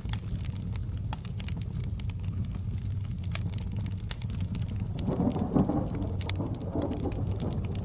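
Layered storm-and-fire ambience: steady rain and sharp crackles and pops from a wood fire over a constant low rumble, with a louder roll of thunder building about five seconds in and fading by seven.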